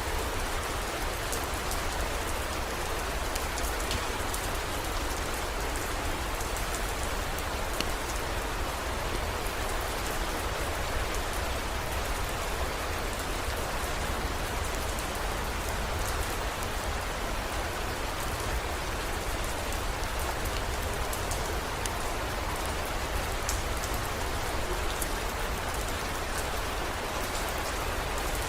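Heavy rain falling steadily, with scattered small drop ticks over a low, even rumble.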